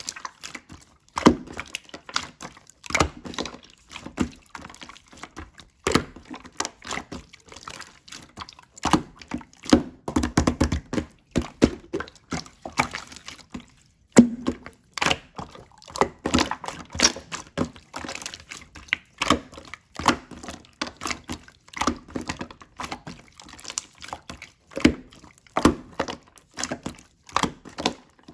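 Slime being squished and pressed by hand, giving quick, irregular wet clicks and pops several times a second.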